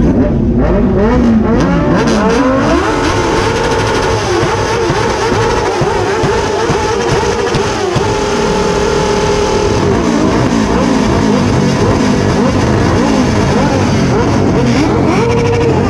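Several sport motorcycles revving their engines together, their pitches rising and falling over one another, with the revs held steady for a second or two twice.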